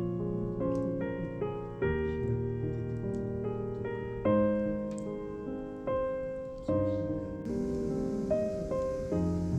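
Gentle background piano music, notes and chords struck about once a second, each ringing on and fading.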